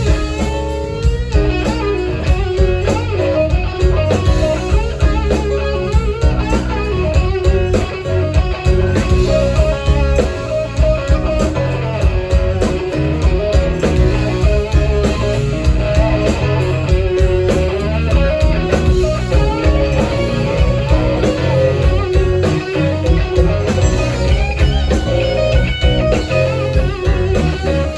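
Live band playing an instrumental passage: electric guitar over bass and drums, in a blues-rock style.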